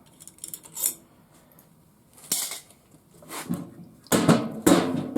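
Metal parts of a garage door opener clinking and clattering as it is worked apart by hand: a few light clicks, a single knock, then busier clattering with two sharp knocks near the end.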